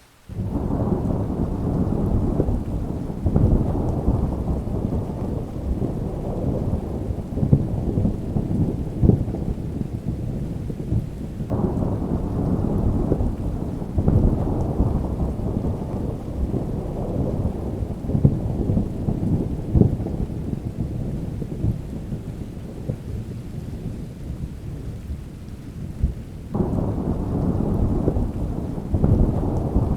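Rain falling steadily with thunder rumbling through it: a deep, continuous rumble, with several brief louder peaks scattered throughout.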